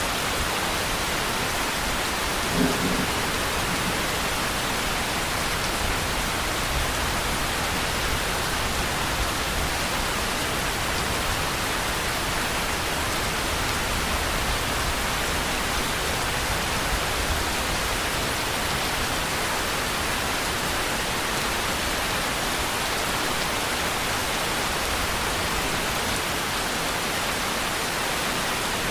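Steady rain: an even, unbroken hiss of many drops. A short low thump comes about three seconds in.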